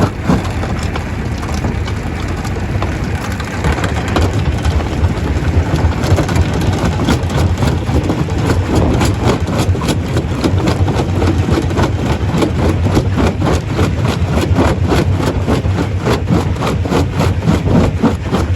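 Heavy machinery of a stone crusher running with a loud, steady low drone, joined about six seconds in by a rapid, even clatter.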